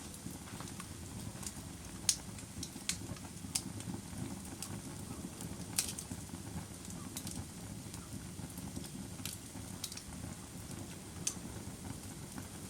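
Fire crackling: sharp, irregular pops and snaps a second or so apart over a steady low rumble of burning.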